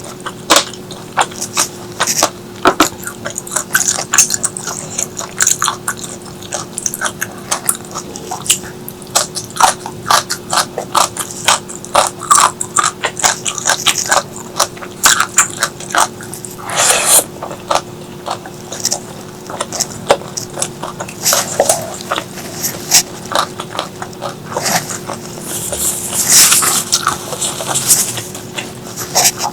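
Close-miked mouth eating sounds: chewing and biting food in a quick, uneven run of clicks and crunches, with two longer wet, hissy sounds about halfway and near the end. A faint steady hum sits underneath.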